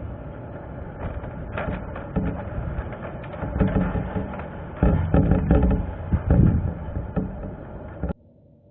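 Strong gusty wind buffeting the microphone, a low rumble that surges and eases, with scattered small clicks and knocks. It cuts off abruptly near the end.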